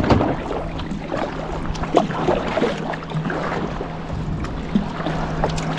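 Kayak paddle strokes splashing and water washing against the hull, with a short knock at the start. Under them runs the steady drone of a motorboat's engine.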